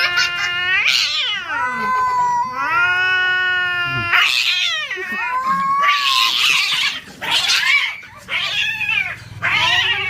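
Cats caterwauling in a fight standoff: long, drawn-out yowls that waver and glide up and down in pitch. From about four seconds in they turn into harsher, rougher yowls in short bursts.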